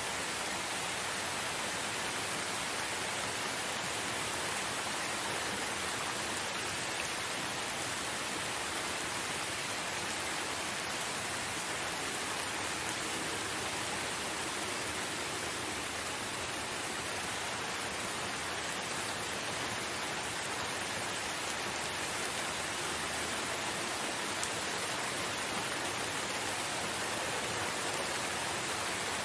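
Steady rain falling in a forest, an even hiss of drops without thunder or other events.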